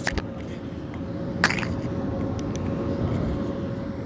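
Steady aircraft engine noise with a faint constant whine, broken by two sharp clicks: one right at the start and one about a second and a half in.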